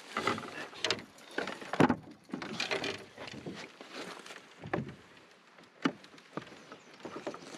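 Canoe being handled at a rocky bank: irregular knocks, clatters and scrapes of the hull and gear, with one sharp loud knock just under two seconds in.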